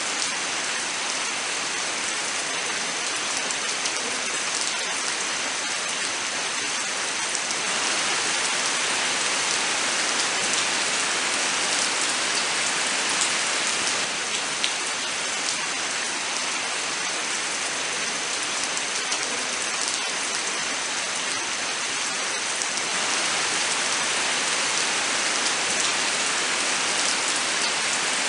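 Steady rain falling in a forest, a dense even hiss with scattered sharper drops striking close by; it swells slightly a couple of times.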